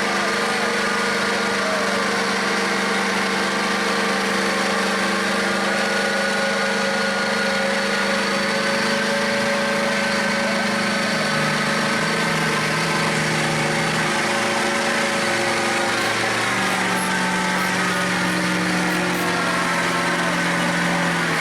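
Mud truck engine running at a steady speed, its pitch shifting slightly a little past halfway through.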